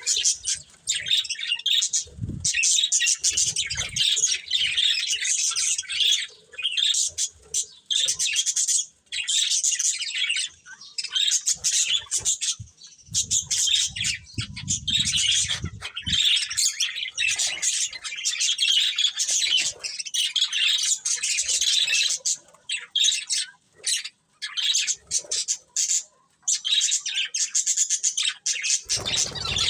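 Several budgerigars chirping and chattering together, a dense, busy warble of short high calls with squawks mixed in.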